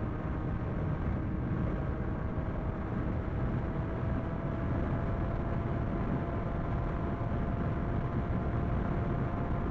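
Sport motorcycle riding at a steady speed: a constant engine hum that creeps slightly up in pitch, under heavy wind rush on the microphone.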